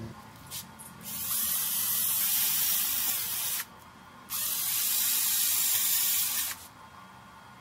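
Paint spraying in two long, even hissing bursts of about two and a half seconds each, with a short pause between them.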